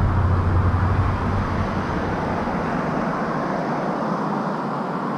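Steady rushing noise of riding a mountain bike: wind on the camera microphone and tyres rolling. A low rumble of wind buffeting fades out about two seconds in.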